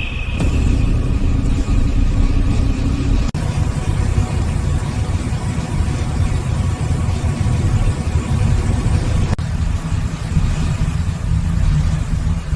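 Royal Enfield Bullet single-cylinder motorcycle engine running steadily, in clips joined by abrupt cuts about three seconds in and again about nine seconds in.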